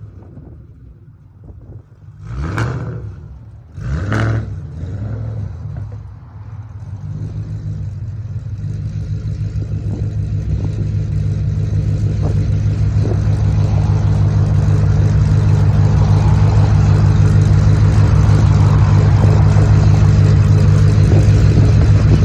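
A tuned supercharged V8 of a Shelby GT500, about 900 hp, gives two short revs about two and four seconds in. It then runs on with a steady note that grows louder over several seconds and then holds.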